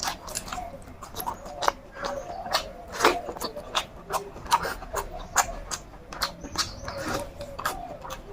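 Close-up eating sounds: chewing and lip-smacking on fried chicken and rice, an uneven run of sharp, wet mouth clicks.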